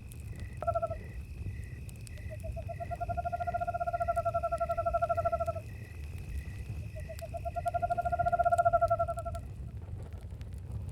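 An owl calls a short note, then gives two long, even trills of about three seconds each. Under them, crickets chirp steadily and a campfire rumbles low.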